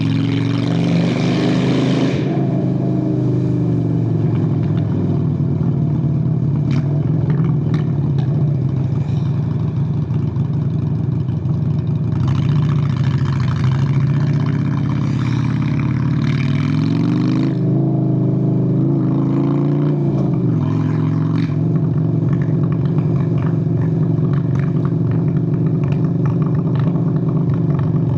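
Honda Steed VLX 600 V-twin engine running steadily while riding, heard close from on the bike. About two-thirds of the way through the engine note rises and dips a few times, then falls. Two spells of rushing noise, one at the start and a longer one in the middle, lie over it.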